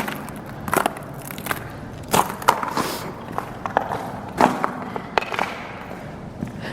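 Footsteps crunching on icy snow: irregular crunches, a few a second at most, with no steady rhythm.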